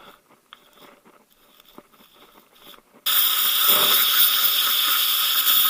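A jet of cleaning spray or compressed air hisses loudly on the timing-belt tensioner pulley. It starts suddenly about three seconds in and cuts off sharply after about two and a half seconds. Before it come faint clicks and scrapes of handling.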